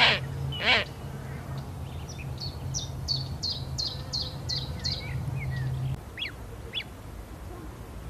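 Wild birds: two harsh, rasping calls in the first second, then a songbird singing a run of about ten short, high, falling notes at about three a second, followed by two brief chirps. A steady low hum lies under it until about three-quarters of the way in.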